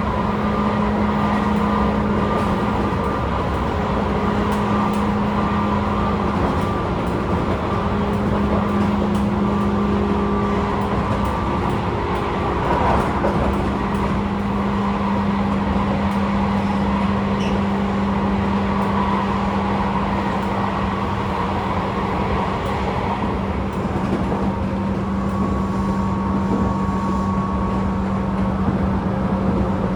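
Interior running sound of a Tobu 10000-series electric train car with field-chopper control, MoHa 15601. The wheels rumble on the rails under a steady motor and gear hum made of several level tones, the lowest the strongest.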